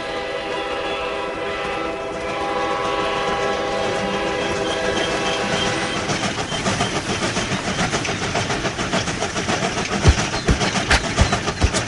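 Train horn sounding a long held blast, then the rhythmic clickety-clack of train wheels over rail joints, growing louder near the end at about two to three knocks a second.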